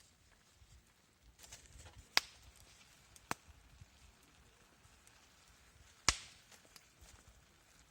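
A few sharp, separate knocks: a loud one about two seconds in, a smaller one a second later, and another loud one about six seconds in that rings on briefly.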